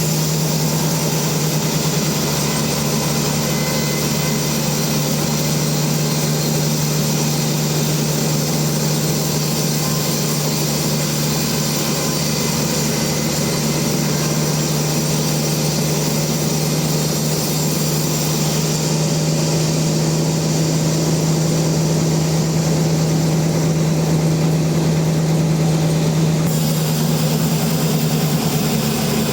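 Sawmill machinery running steadily: a constant low hum under an even hiss.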